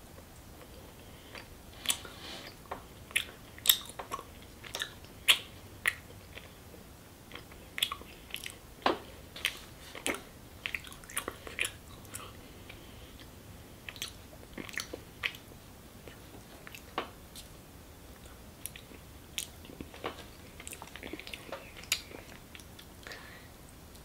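Close-up mouth sounds of a person chewing soft chestnut mochi: irregular sharp lip smacks and clicks, bunched in clusters with short pauses between.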